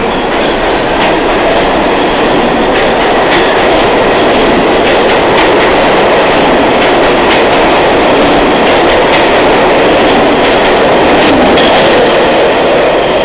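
R32 subway train running at speed: a loud, steady rumble of steel wheels on rail, with a few sharp clicks scattered through it.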